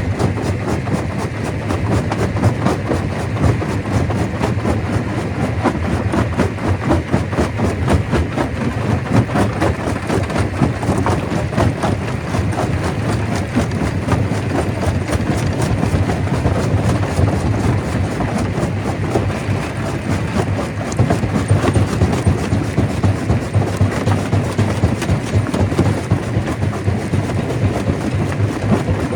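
Stone crusher running, with a dense, continuous clatter of rock being broken and rattled through the machine.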